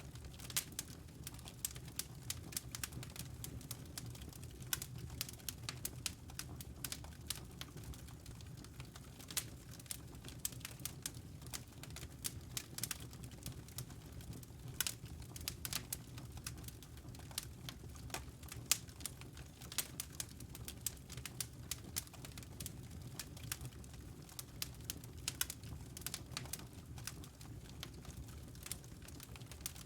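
Wooden logs burning in a fireplace, crackling: many irregular sharp pops and snaps, several a second, over a steady low rumble of the fire.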